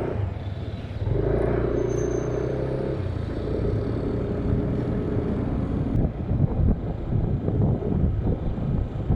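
Motorcycle engine running at low speed, its pitch shifting a couple of times, then from about six seconds in wind buffeting the microphone as the bike rides on.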